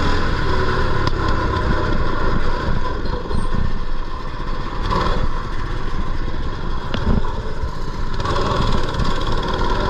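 Mini bike's small engine running steadily, mixed with a rough low rumbling noise.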